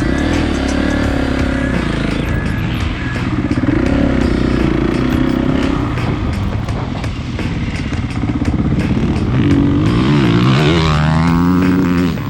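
Dirt bike engine running and revving, its pitch rising and falling repeatedly with sharp swings near the end, with clattering throughout.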